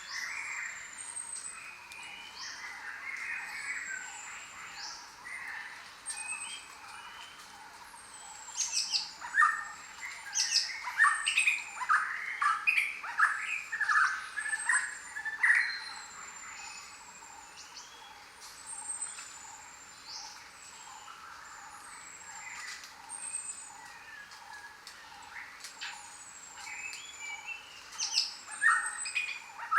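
Chorus of many jungle birds calling and whistling, with thin high whistles throughout. A run of louder, sharper calls comes from about a third of the way in to just past halfway, and again near the end.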